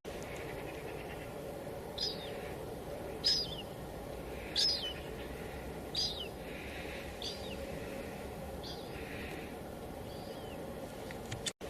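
Steady hiss of light drizzle against a window, with a bird calling over it: a short, high, downward-sweeping chirp repeated about every second and a half. The sound drops out briefly near the end.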